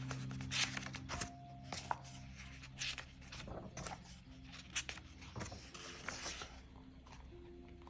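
Coloring strokes on a coloring-book page: irregular short scratchy rubs of a coloring tool on paper, over soft background music of held low notes.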